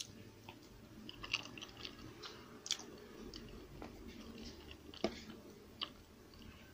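Close-miked eating: a mouthful of macaroni salad being chewed, with a few sharp clicks of a fork against its small bowl.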